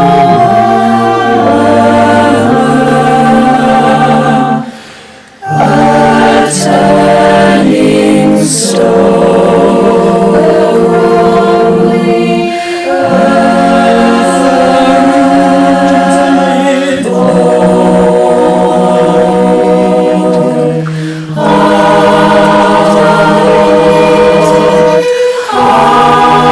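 A cappella choir singing sustained chords in several parts, phrase by phrase, with short breaths between phrases. The voices were recorded separately and mixed together into one virtual chorus.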